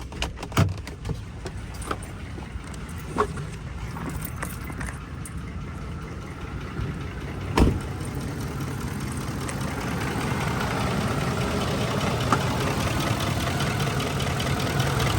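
2004 Ford F-150's 5.4-litre V8 running, with its sound growing steadily louder through the second half. A few clicks in the first seconds and a single sharp knock about seven and a half seconds in.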